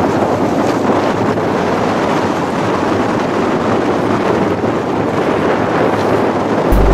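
Steady wind buffeting the microphone on a small sailboat, over the rush of water and waves.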